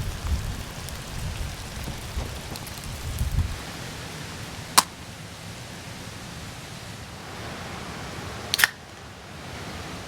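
Steady hiss of rain, with a low rumble that stops about a third of the way in, and two sharp clicks, one in the middle and a doubled one near the end.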